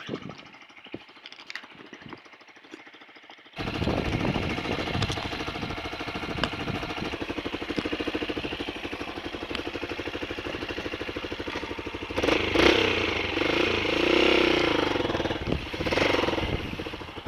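Honda XLR125 dirt bike's single-cylinder four-stroke engine catching suddenly about three and a half seconds in after failing to restart from a stall, then running with a fast, even beat and revved up and down twice near the end.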